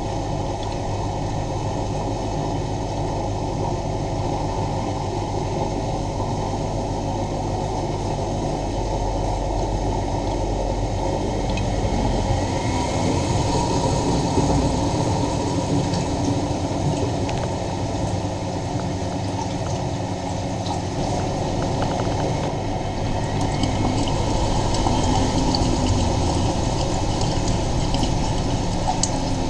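Miele Novotronic W923 washing machine with water rushing through it, a steady sound with a low hum underneath.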